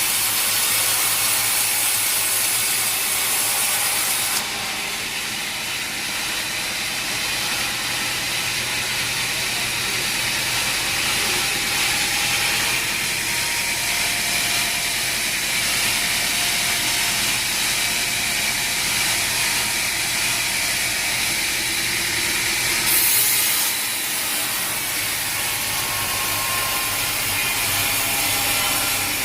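A powered sawmill saw cutting steadily through a wooden log, making a continuous rasping noise. The hiss eases slightly about four seconds in, and there is a brief louder surge about three-quarters of the way through.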